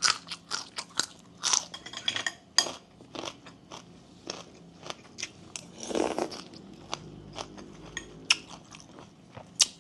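A person chewing and crunching mouthfuls of sup no mai (shredded bamboo-shoot salad) with sticky rice close to the microphone: a quick run of crisp crunches and wet mouth clicks, with a longer, louder chewing noise about six seconds in.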